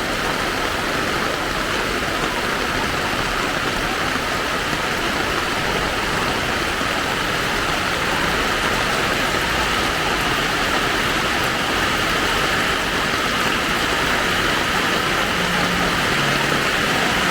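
Steady hiss of rain falling in a street, with motor traffic mixed in; a low engine hum comes in near the end.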